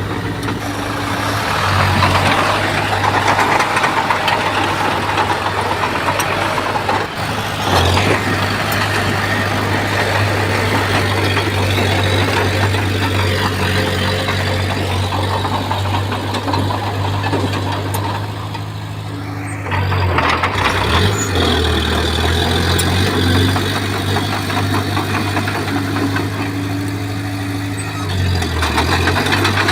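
Bulldozer's diesel engine running steadily under load, with a clank about eight seconds in. Around two-thirds of the way through the engine eases off briefly, then picks up again with a change in pitch.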